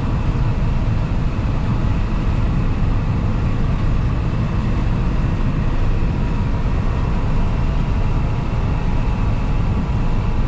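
Cab interior of a John Deere 9650 combine harvesting: a steady engine and machine rumble, with thin high tones from the alert that signals the unloading auger is running.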